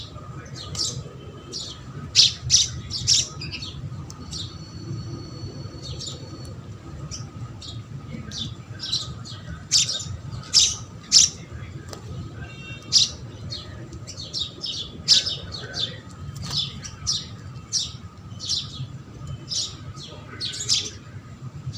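Small birds chirping in short, sharp calls, again and again at an uneven pace, over a steady low hum.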